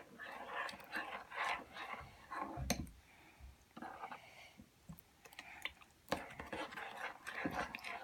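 Faint, irregular scraping and clicking of a utensil against a bowl as glue slime is worked with borax solution, with a duller knock a little under three seconds in.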